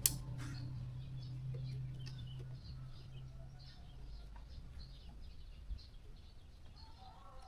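Faint birds chirping throughout. A sharp click at the very start is followed by a low steady hum that fades out over the first few seconds.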